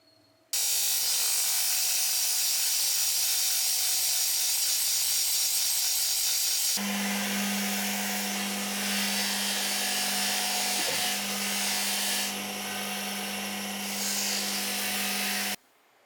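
An electric power tool running steadily with a high, gritty whine. It starts abruptly, changes suddenly about 7 seconds in to a version with a stronger low hum, and cuts off near the end.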